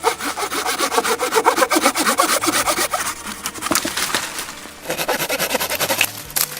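A saw cutting through wood with fast rasping strokes, in two bouts with a short pause a little past halfway.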